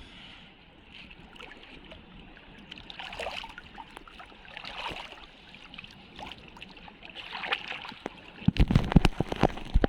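Sea water sloshing and gurgling, with a cluster of loud low thumps and crackles about a second before the end.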